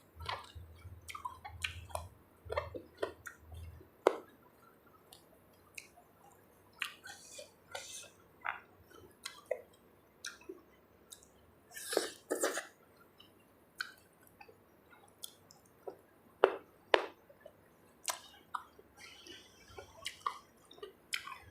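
A person eating spicy Thai seafood salad close to the microphone: irregular wet chewing with lip smacks and small clicks, a few louder smacks around the middle.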